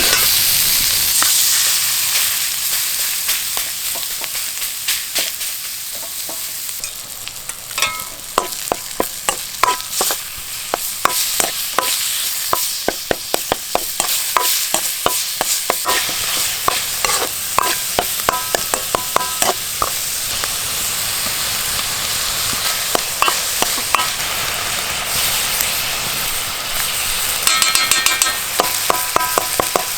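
Food sizzling and frying in a pan while mapo tofu is cooked, a steady hiss. From about eight seconds in, a utensil stirs it with many sharp taps and scrapes against the pan, with a quick run of taps near the end.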